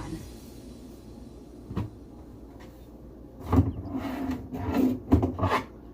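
A single light click, then about a second and a half later a cluster of knocks and bumps as tools and rags are handled and set down in the cabinet under a kitchen sink.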